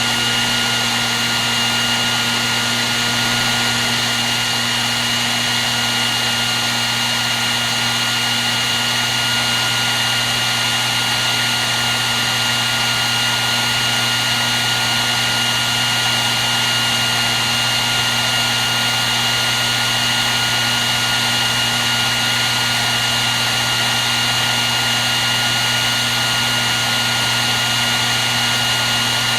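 Hair dryer running steadily: an even rush of blown air with a steady high whine and a low motor hum.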